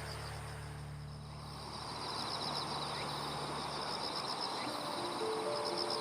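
Insects chirping in rapid pulsed trills over a steady high-pitched buzz, as in a late-summer evening insect chorus. Soft held music notes die away early on, and new ones come in near the end.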